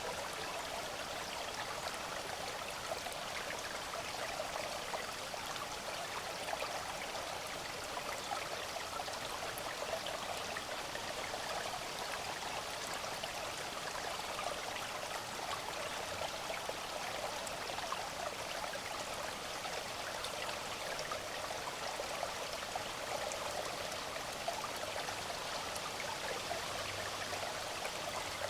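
Small brook or creek running over rocks, a steady babbling water sound that holds evenly throughout.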